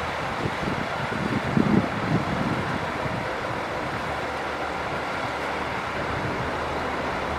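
Heavy diesel earthmoving machinery running steadily, with a few low knocks in the first two seconds.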